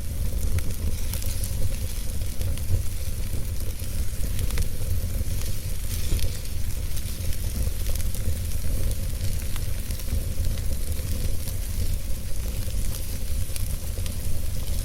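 Wood fire burning in a fireplace: a steady low rumble of flames with constant fine crackling and a few sharper snaps.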